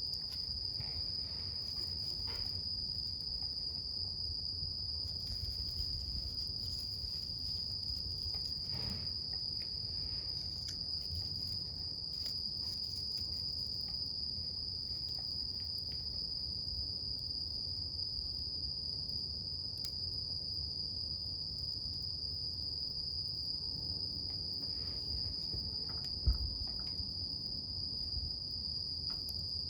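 A wood campfire burning, with scattered soft crackles and one sharper pop about 26 seconds in, under a steady, unbroken high insect trill, typical of crickets.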